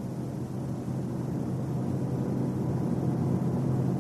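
A car driving at highway speed: a steady low drone with road noise, slowly growing louder.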